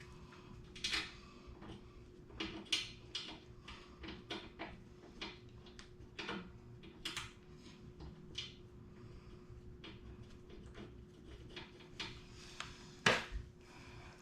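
Irregular clicks and clinks of metal brake parts being handled and fitted on a mini bike, with one louder knock near the end.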